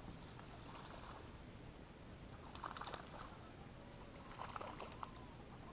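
Water splashing and trickling softly around a kayak, with two brief louder splashes, one about three seconds in and one near the end.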